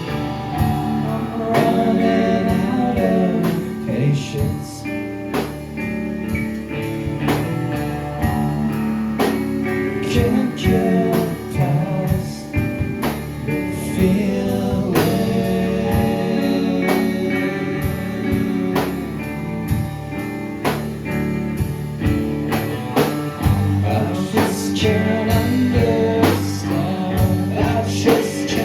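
Live band playing a song with a steady drum beat, guitars and bass, and a voice singing over it.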